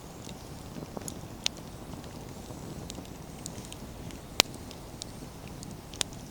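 Wood fire burning with a steady low rush and scattered sharp crackles and pops of the burning firewood, the loudest pop about four seconds in.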